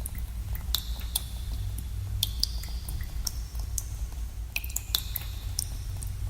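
Water drops falling irregularly into pools in a cave, each a sharp plink, many ringing on briefly at different high pitches. A steady low rumble runs beneath.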